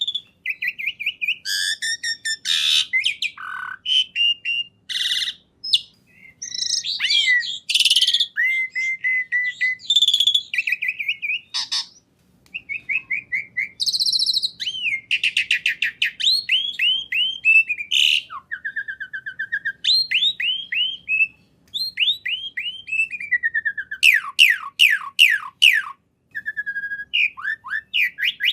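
A songbird singing a long, varied song of fast trills, quick repeated chirps and downward-sweeping whistled notes, in phrases broken by short pauses.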